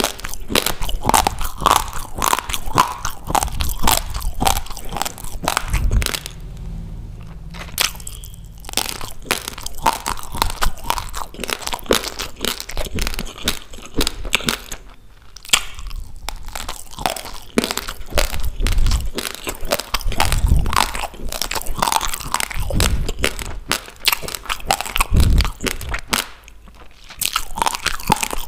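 Close-miked crunching and chewing of a mouthful of raw rice grains: a dense stream of rapid crackly crunches, with short pauses about six seconds in, around the middle and near the end.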